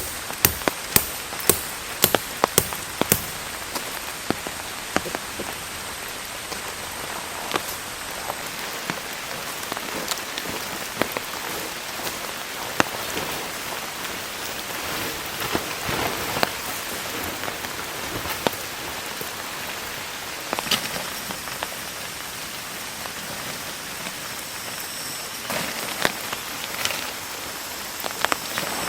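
Heavy rain falling steadily, an even hiss with scattered louder drops tapping. A quick run of sharp knocks sounds in the first few seconds.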